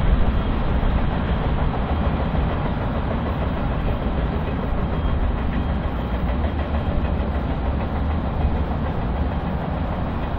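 Freight train cars rolling past on the rails, a steady, even noise without distinct beats or horn.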